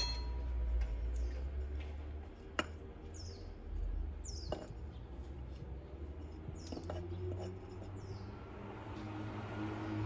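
Small birds calling: about five short, high chirps that each slide downward, spaced irregularly. A few sharp taps and clicks from handling the planter and soil come in between.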